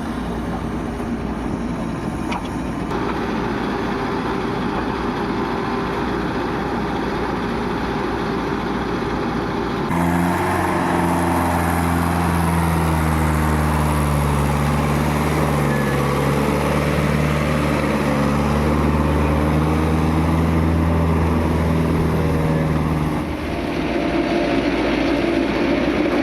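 Heavy diesel engines of earth-moving machinery running. About ten seconds in the sound switches abruptly to a steady, deeper engine note, which changes again near the end.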